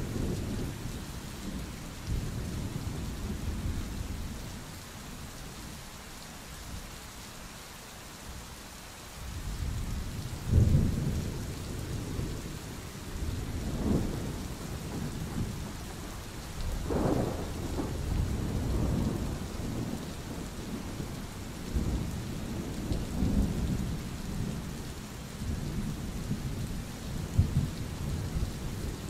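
Steady rain falling through a thunderstorm, with low rolling thunder that swells and fades. The rumbling dies down for a few seconds, then a sharp loud clap comes about ten seconds in, followed by several more peals.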